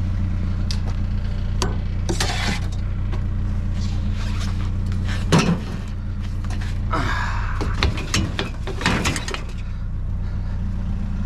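A vehicle engine running steadily, with loose objects clattering and knocking over it in several short bursts; the loudest is a single sharp knock about five seconds in.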